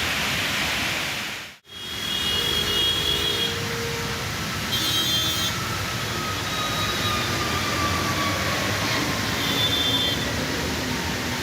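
Traffic on a rain-wet highway: a steady rush of engines and tyre noise, with short high-pitched tones a few times. The sound cuts out for a moment about a second and a half in.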